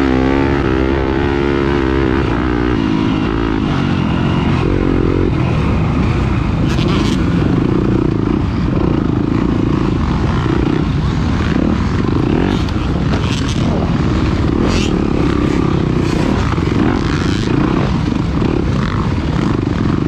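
Off-road racing engine running hard under constant throttle changes, its pitch dropping and climbing in the first few seconds and wavering throughout, with a few short knocks and rattles.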